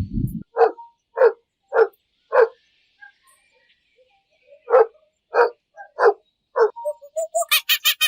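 A dog barking: two sets of four short, evenly spaced barks, with a pause of about two seconds between the sets. Near the end a fast run of sharp high chirps comes in.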